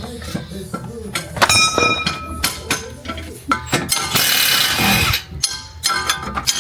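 Metal tools and car parts clinking and knocking during hands-on work on a car, with one ringing metallic clang about one and a half seconds in and about a second of hissing noise around four seconds in.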